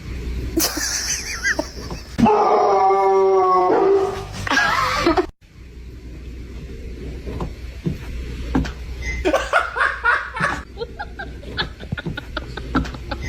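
A pet animal's calls mixed with people laughing, with one long steady call about two seconds in. The sound cuts off abruptly about five seconds in, then short calls and clicks follow.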